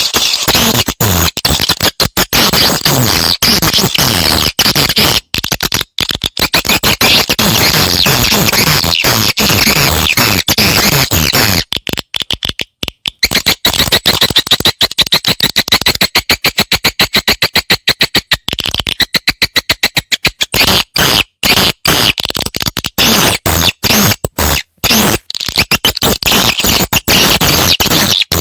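Recorded swiftlet calls played as a lure: a loud, dense chorus of rapid chirps and clicks with many short breaks, the sound used to draw swiftlets to settle and nest in a swiftlet house.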